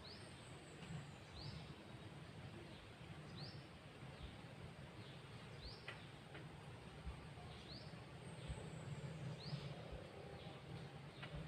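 A bird gives short, faint rising chirps, one about every second, over a low steady background noise.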